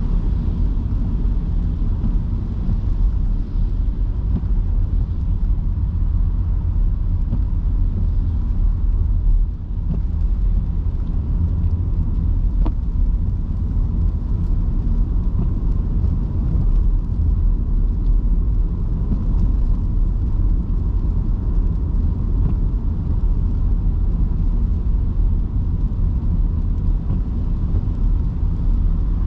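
Electric car driving on rain-soaked city streets: a steady low road and tyre rumble with a lighter hiss above it.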